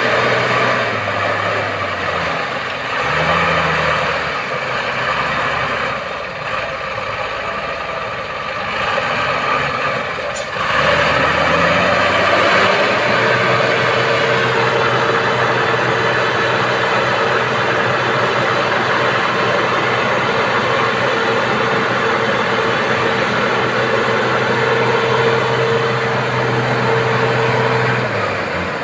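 Heavy diesel truck engine labouring under load, its pitch rising and falling during the first ten seconds. About ten seconds in the sound changes abruptly to a steady engine note with a high whine held for about fifteen seconds.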